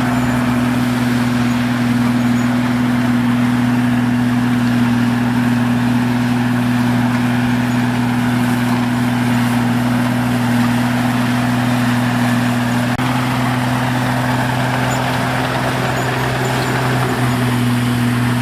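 Bulldozer's diesel engine running at a steady speed, a constant low drone.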